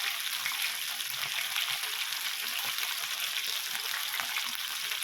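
Chicken kebabs sizzling and crackling in hot oil and fat on an indoor grill plate, a steady dense spitting of fine pops.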